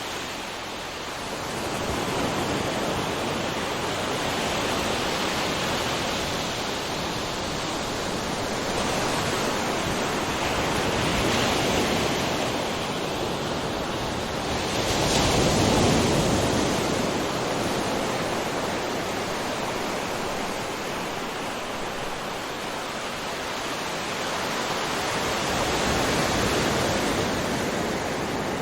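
Ocean waves breaking and washing onto a shore: a continuous rush that swells and eases every few seconds, with the biggest wave crashing about halfway through.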